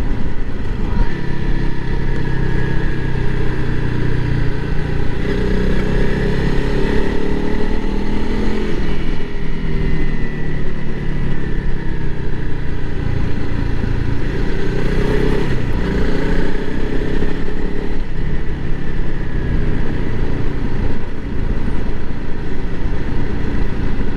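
Honda CRF300L Rally's single-cylinder engine running as the bike is ridden, its note rising and falling several times with throttle and gear changes, over a steady rush of wind and road noise.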